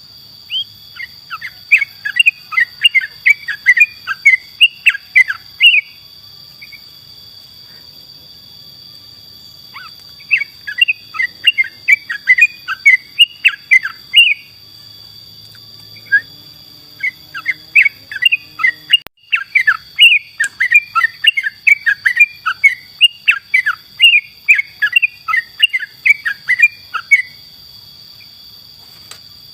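Yellow-vented bulbul (trucukan) singing in three bouts of fast, bubbling chirps, with pauses of a few seconds between them. A steady high-pitched tone runs underneath.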